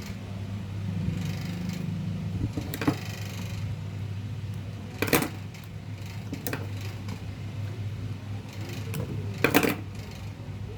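Table fan's electric motor running with a steady mains hum, with three sharp knocks about three, five and nine and a half seconds in, the last the loudest.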